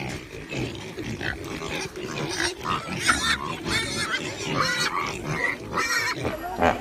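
Several pigs making many short, overlapping calls: low grunts mixed with higher-pitched squeals.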